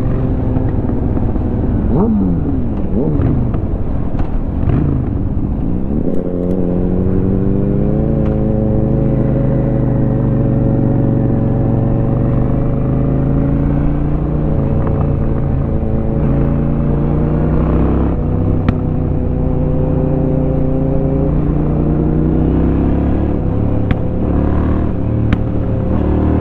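A 2004 Honda Shadow 750's V-twin engine under way, heard from the rider's helmet. In the first few seconds its pitch sweeps up and down through the gears. About six seconds in it settles into a steady cruise, the engine note climbing slowly with speed.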